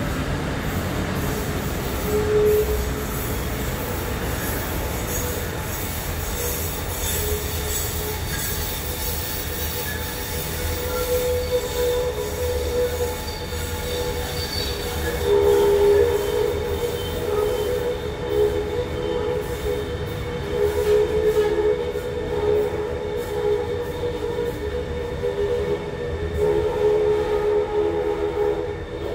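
Taipei Metro Circular Line train running round a curve on an elevated viaduct as it pulls into the station, over a steady rumble. Its wheels squeal in wavering tones that come and go, loudest about halfway through and again in the last third.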